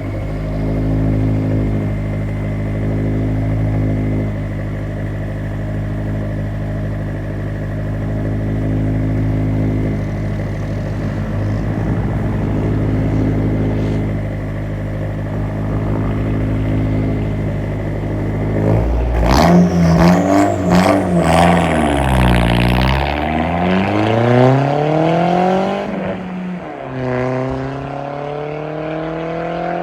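A 1999 Audi A4's AEB 1.8-litre turbocharged four-cylinder running through a 2.5-inch exhaust with the muffler deleted. It idles steadily for about the first nineteen seconds, then the note changes suddenly and sweeps down and back up. The pitch drops sharply about twenty-six seconds in and climbs again.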